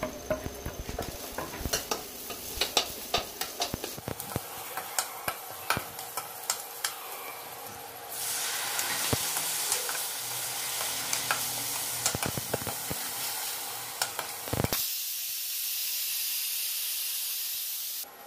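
Onion-and-spice masala sizzling in a steel kadhai while a spatula scrapes and taps against the pan. About eight seconds in the sizzle grows louder, and for the last few seconds only the steady sizzle is heard, without the spatula.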